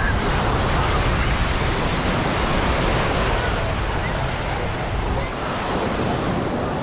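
Sea waves washing onto a sandy beach, a steady surf noise, with wind rumbling on the microphone.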